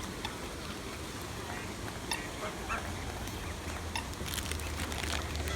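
Waterfowl crowding in to be fed give several short honking calls. A low wind rumble on the microphone builds near the end.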